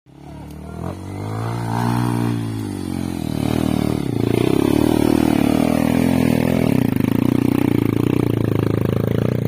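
Single-cylinder four-stroke trail motorcycle engine revving. Its pitch rises and falls about two seconds in, then from about four seconds it runs loud and steady at high revs, pulling up a climb.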